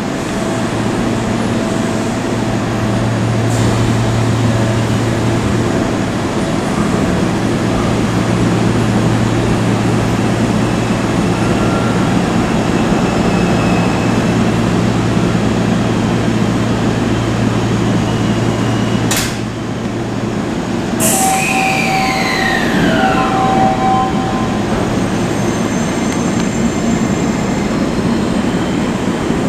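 Seibu 20000 series electric train standing at a platform, its onboard equipment giving a steady low hum. About two-thirds of the way through come two sharp hissing noises, then a whine that falls in pitch.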